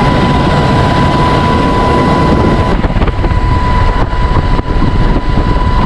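Loud, steady rumble and rush of a UH-60 Black Hawk helicopter with wind buffeting the microphone, a steady high whine running through it. The sound turns duller about two and a half seconds in.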